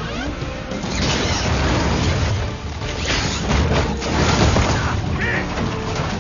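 Action film soundtrack: dramatic score music over heavy booms and crashing impacts.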